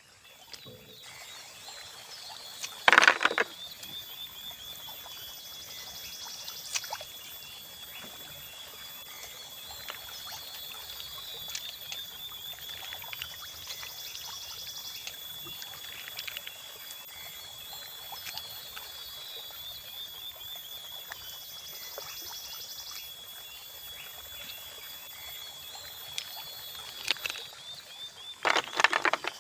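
Steady wash of running water with a constant high insect trill over it. Two short, loud noises stand out, about three seconds in and again near the end.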